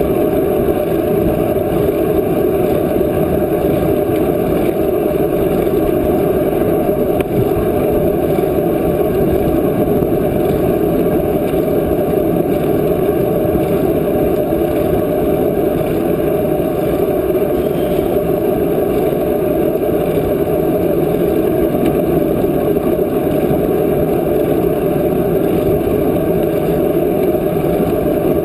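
Steady wind rushing over the microphone of a camera carried on a moving bicycle, a loud, even rumble with no breaks.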